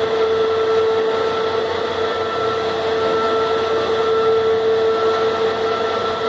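Steady machinery hum with a constant mid-pitched whine and fainter higher tones above it, typical of a cruise ship's deck machinery while the lifeboats are hoisted.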